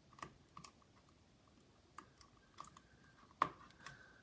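Faint, scattered light clicks and taps of small plastic parts as a cable connector is fitted back into a laptop's motherboard, with one sharper click about three and a half seconds in.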